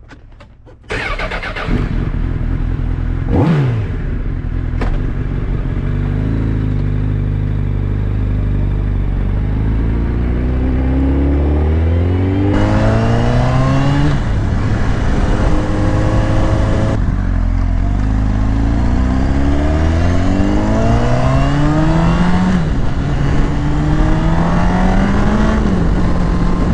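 Sportbike engine coming in suddenly about a second in and blipping once, then accelerating hard. Its pitch climbs through the gears and drops back at each of three upshifts.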